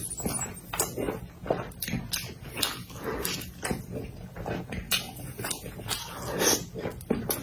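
Close-miked eating sounds: wet chewing with irregular mouth smacks and clicks, several a second.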